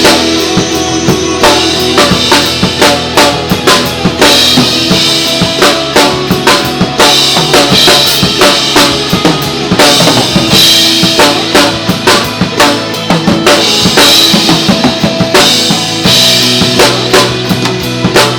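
Drum kit played live over a pop backing track in an instrumental passage: steady bass drum and snare hits, with cymbal crashes every few seconds.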